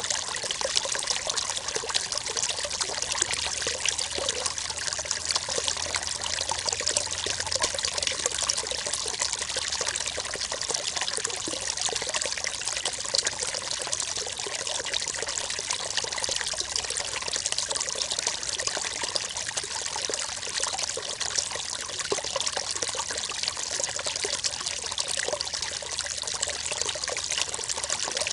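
River water flowing steadily over stones, a continuous babbling and splashing.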